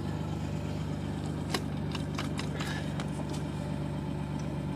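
1996 Dodge Dakota's 3.9-litre V6 idling steadily on a cold start, right after firing up from sitting unused for a long time, with a few faint clicks over it.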